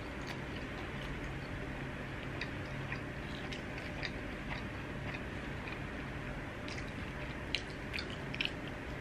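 A person chewing a soft steamed siew mai dumpling, close to the microphone: faint wet mouth clicks every half second or so, a few sharper ones near the end, over a low steady hum.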